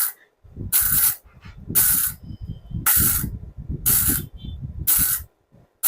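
Kobe 315 Pro MIG welder laying a bead on thin box-section steel at a low setting: the arc crackles and hisses in short bursts about once a second.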